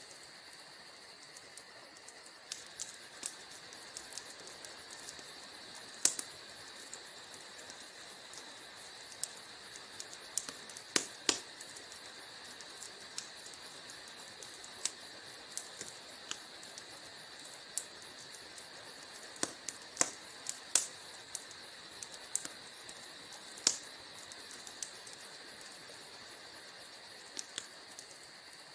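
Wood fire crackling in a fireplace: irregular sharp pops and snaps, a few much louder than the rest, over a steady hiss.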